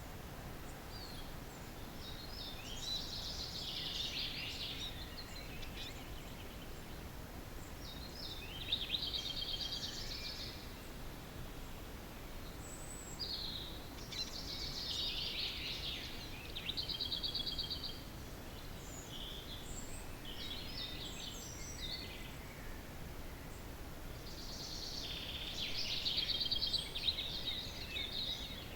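Songbirds singing: one bird repeats a trilling song phrase of two to four seconds about every five to ten seconds, with short calls from other birds in between. A steady background hiss runs underneath.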